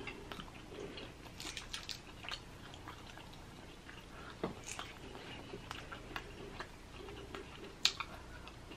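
Close-up chewing and mouth sounds of someone eating Dungeness crab meat, with scattered small clicks and a couple of sharper clicks, about four and a half and eight seconds in.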